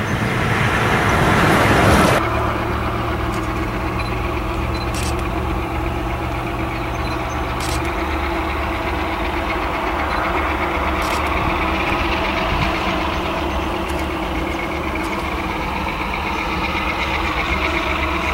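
A group of diesel-electric freight locomotives running past with a steady low engine rumble, followed by wagons rolling over the rails. For the first two seconds a louder rushing noise covers it, then stops abruptly.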